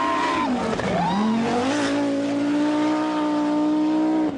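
Group B rally car engine at full throttle: two quick rises and drops in revs, then held high with the pitch slowly climbing, breaking off abruptly near the end.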